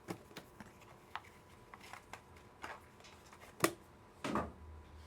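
Trading cards in their plastic cases being handled: scattered light clicks and taps, a sharper click about three and a half seconds in, then a short rustling scrape.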